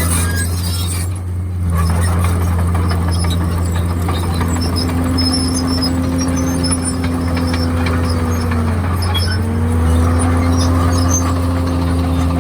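Komatsu D51PX crawler bulldozer running with a steady low diesel drone and a whine that sags in pitch about nine seconds in, then climbs back.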